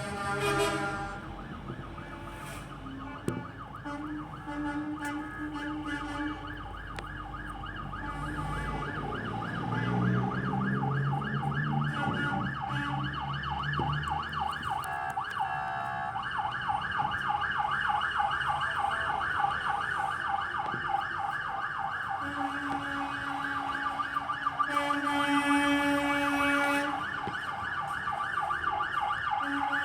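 Emergency vehicle siren sounding in a fast warble, growing louder about a third of the way in. Long, steady horn blasts from the convoy trucks sound a few seconds in, again for several seconds after the middle, and near the end, over low engine rumble early on.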